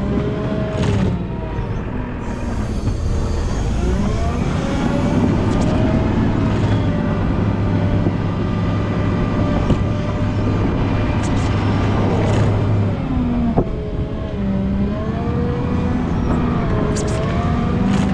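Volvo L90H wheel loader's diesel engine running under varying load while plowing snow, its pitch rising and falling repeatedly as the revs change, over a steady low drone. A single short click about two-thirds of the way through.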